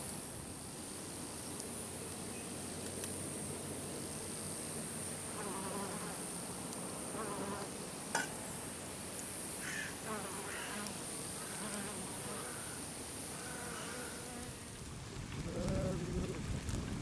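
A flying insect buzzing close by, its pitch wavering up and down as it comes and goes, over a steady high hiss that cuts off near the end.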